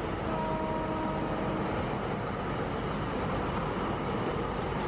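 Double-stack container freight train running past: a steady rumble of rolling wagons, with a steady pitched hum over it that stops about a second and a half in.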